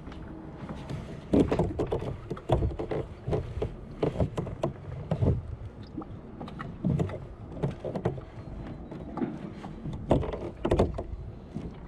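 Irregular knocks and water sloshing against the plastic hull of a Native Titan Propel pedal kayak as the rider moves about and sits back down, over a low rumble.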